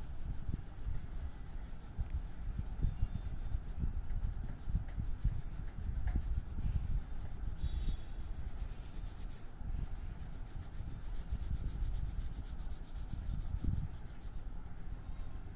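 A colouring or drawing tool rubbed back and forth on paper in quick, uneven strokes, without a break.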